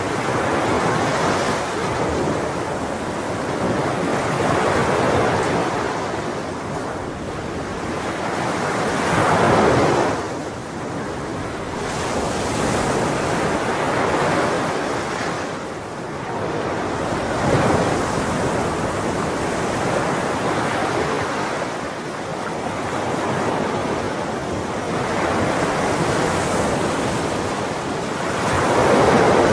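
Ocean surf: waves breaking and washing in, swelling and easing every few seconds, with the loudest swells about ten seconds in, after about seventeen seconds, and near the end.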